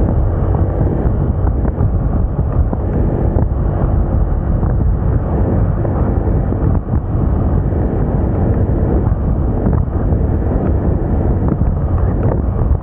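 Heavy wind rumble on the microphone of a Moda Moca 110 scooter on the move, with the scooter's engine running underneath as a steady drone.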